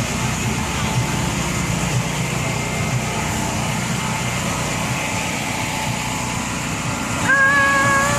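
Steady low mechanical hum with outdoor background noise. About seven seconds in, a single held pitched tone sounds for about a second.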